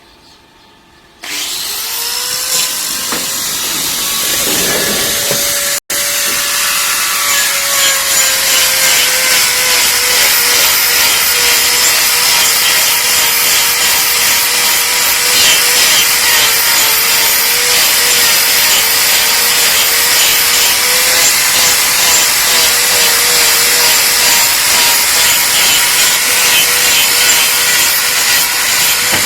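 Electric angle grinder with a hoof-trimming disc cutting a cow's hoof horn. It starts abruptly about a second in and runs on under load, its whine sagging and recovering as the disc bites, with a split-second break near six seconds.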